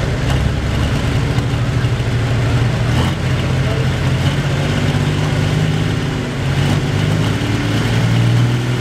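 John Deere pulling tractor's engine running hard while it pulls the sled down the track, a steady deep note that grows louder near the end.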